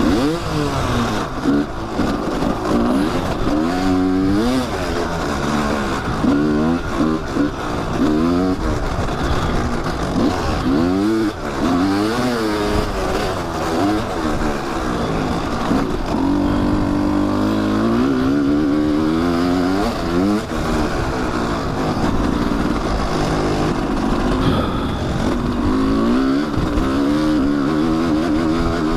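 Kawasaki dirt bike engine being ridden hard on a trail, revving up and falling back over and over, its pitch climbing and dropping every second or two as the throttle is worked.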